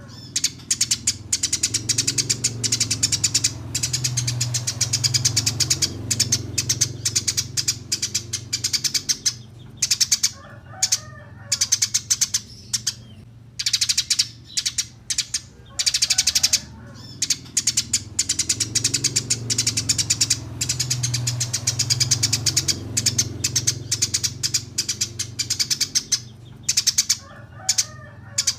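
Small songbird singing long, rapid, high-pitched chirping trills in bursts with short pauses, and a few lower call notes between them. A low hum runs underneath.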